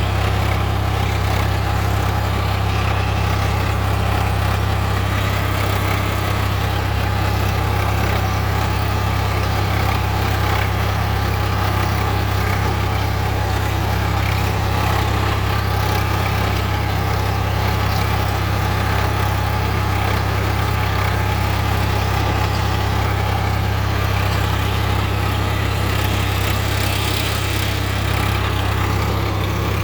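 Swaraj 744FE tractor's three-cylinder diesel engine running steadily with a deep, even hum, working in a wet field.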